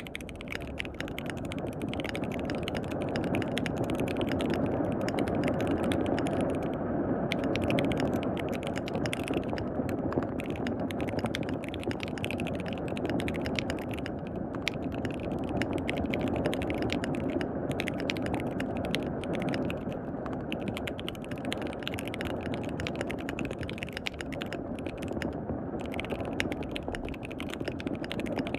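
Fast, continuous typing on a KBD67 Lite mechanical keyboard with lubed linear switches, a dense run of key clacks, over the steady hiss of falling rain.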